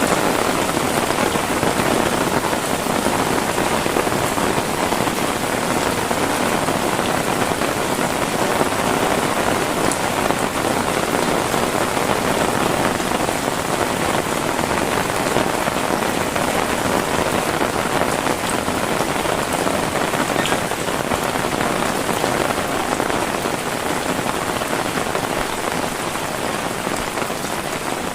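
Heavy rain falling steadily, a dense even hiss of drops on surfaces, easing slightly near the end.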